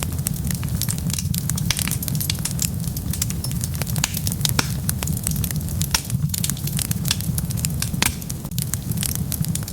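Wood fire burning with dense, irregular crackles and pops over a steady low rumble of flames.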